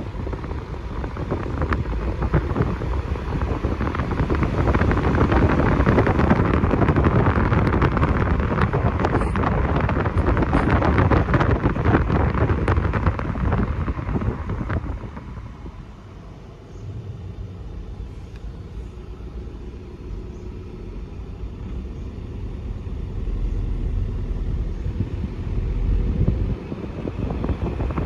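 A moving car's road and wind noise, steady, louder through the first half and dropping off about halfway through.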